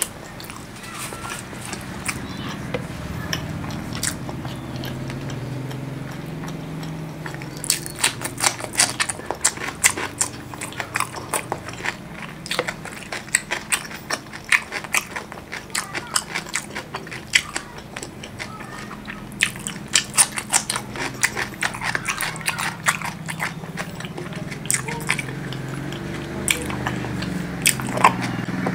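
Close-miked chewing and biting of spicy tomato chicken and raw cucumber: wet mouth sounds with runs of crisp crunches, densest about eight seconds in and again around twenty seconds in.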